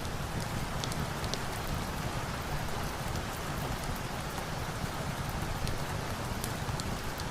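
Steady rain, an even hiss of falling water with scattered sharp ticks.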